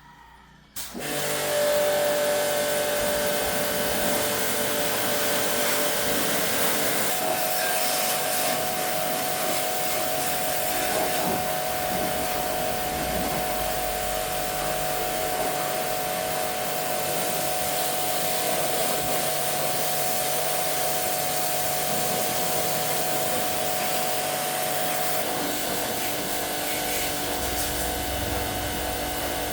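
A small electric motor starts about a second in and runs steadily and loudly, its hum shifting slightly in pitch twice.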